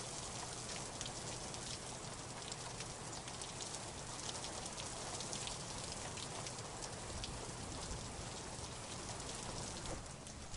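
Steady rain falling, an even hiss of rainfall made up of countless small drop hits.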